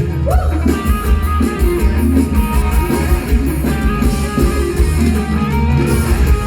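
Live mor lam band playing an instrumental passage: guitar leading over a pulsing bass beat, with no singing.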